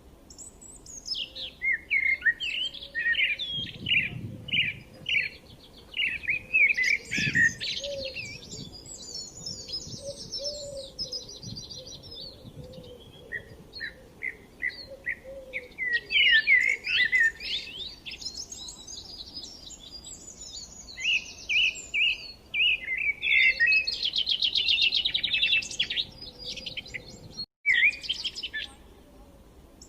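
Small songbirds chirping and trilling busily, many short calls overlapping, with quick rattling trills in places. The sound drops out for a split second near the end.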